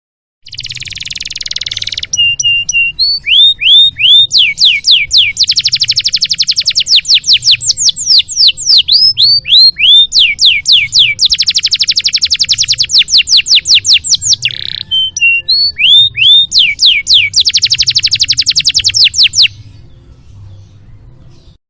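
Domestic canary singing a long, varied song: a raspy opening, strings of quick down-slurred whistles and several long, fast rolling trills, breaking off about two seconds before the end.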